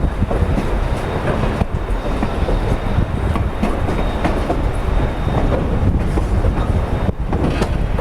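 Durango & Silverton narrow-gauge steam train rolling along the track: a steady rumble with the wheels clattering over the rail joints and a faint high wheel squeal.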